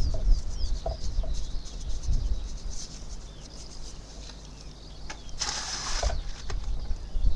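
Faint bird chirps over a low rumble, with a brief scraping noise about five and a half seconds in.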